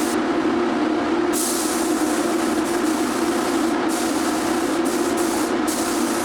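Compressed-air paint spray gun hissing as it sprays primer, the hiss cutting out briefly several times as the trigger is let off, over a steady low hum.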